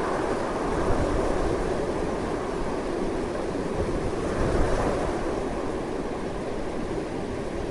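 Strong, steady wind rushing and gusting, with a low rumble beneath. It swells a little about a second in and again around the middle, then eases slightly.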